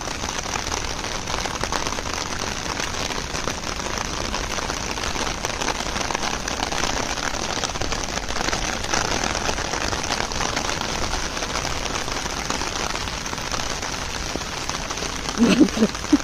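Steady rain on wet stone paving: an even hiss full of fine patter. Near the end a person's voice starts.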